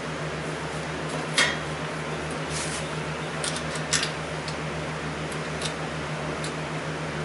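A few light, sharp clicks and taps of tools and small metal parts being handled, scattered over a steady low hum.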